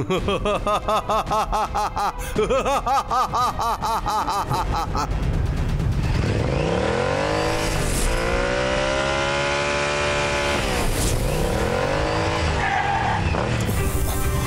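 Cartoon motorcycle engine sound effect. From about six seconds in, the engine revs up and down in long sweeps, each rising and then falling in pitch, over a steady low rumble. Before that there is a fast-pulsing, warbling sound.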